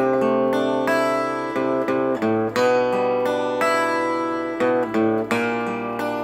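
Acoustic guitar strummed and picked through a D, C and G chord progression, each chord struck about once or twice a second and left to ring.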